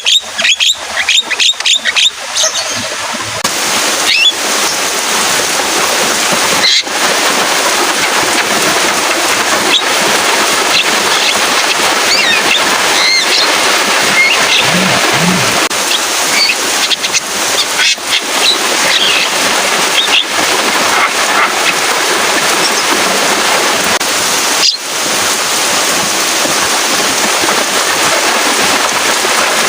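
Steady rain noise with a Javan myna's calls over it: a fast run of clicking chatter in the first couple of seconds, then a few brief calls scattered through the rain.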